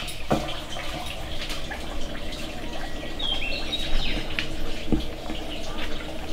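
Birds chirping now and then, in short high calls, over a steady outdoor background with a few soft clicks.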